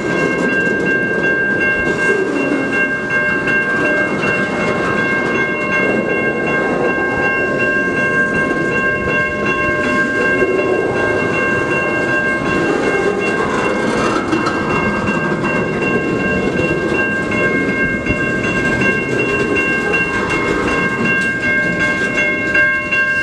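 Freight train cars rolling slowly through a grade crossing: a steady rumble and clatter of steel wheels on the rails. Over it runs a steady high-pitched ringing that does not change.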